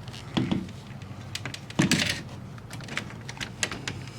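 Irregular clicks and a few light knocks of a screw being started by hand into a storm door's metal hinge.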